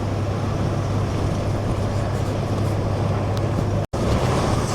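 Steady low drone of a truck's engine and road noise heard inside the cab while driving, with a split-second dropout near the end.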